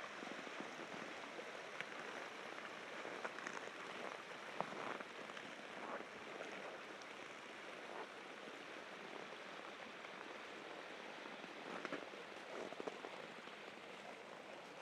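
Steady rushing of rapids in a partly frozen river, with irregular crisp crunches from footsteps on frozen snow.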